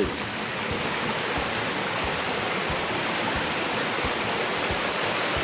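River flowing: a steady rush of water.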